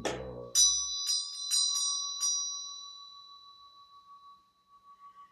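A small high-pitched bell struck about five times in quick succession, its ringing dying away over a couple of seconds.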